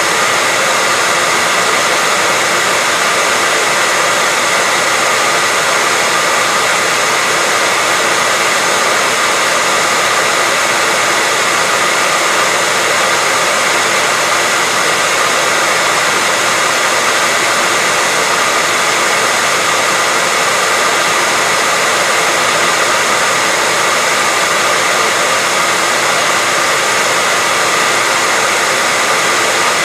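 Hair dryer running continuously: a loud, steady rush of air with a faint constant motor whine, unchanging throughout.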